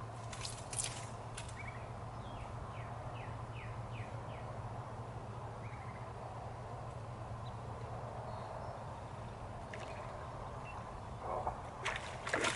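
Quiet steady outdoor background with a small bird singing a quick run of about seven short falling notes about two seconds in. Near the end come a few sharp clicks and a splash at the water's surface as a bass swirls at the fly near the bank.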